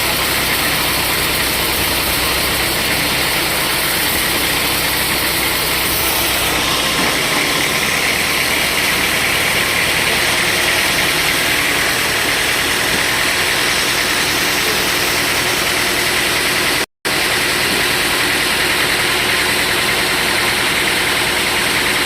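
Sawmill machinery running steadily. About six seconds in, the low rumble drops away and a higher hiss comes up. A moment of dead silence cuts in near the end.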